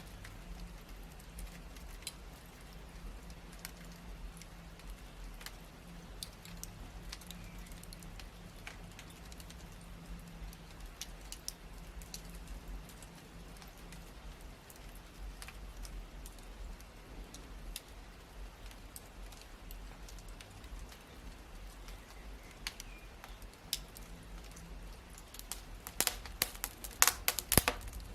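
Wood fire crackling, with scattered sharp pops and snaps over a faint low hum. Near the end the pops come thicker and louder.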